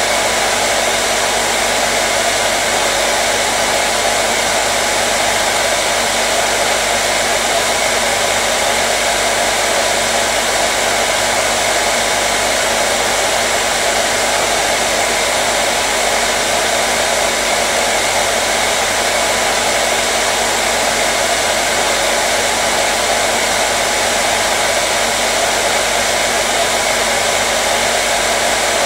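Hair dryer running steadily: an even, unchanging rush of blown air over a faint motor hum, used as white noise to calm a colicky baby.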